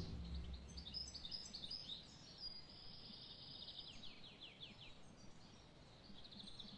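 Small songbirds chirping faintly: runs of quick, high, short notes and rapid descending strokes, with a brief trill near the end.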